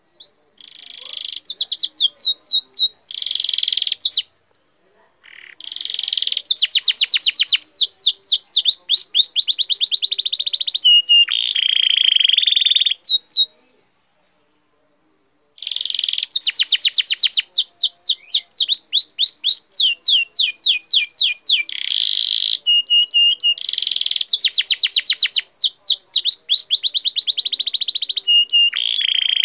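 Bird song: long phrases of rapid, high chirps, each sweeping downward, mixed with short buzzy notes, broken by a few brief silences.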